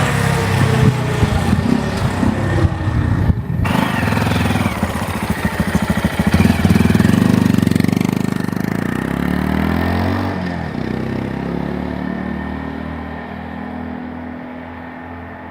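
Honda Monkey 125's single-cylinder engine on its stock exhaust, running with the pitch rising and falling as it is revved. It then settles to a steadier note and grows quieter over the last several seconds.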